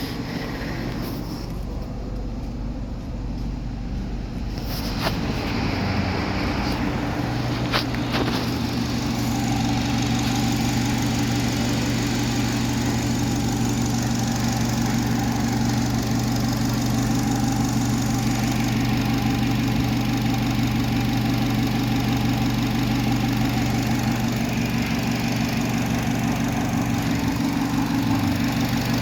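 Car engine idling steadily, growing louder over the first several seconds, with a single sharp click about eight seconds in.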